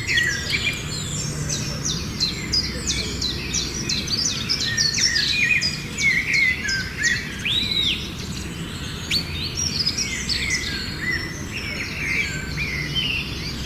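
Several small birds chirping and calling together in dense, overlapping bursts of short high whistles and trills, over a steady low background rumble.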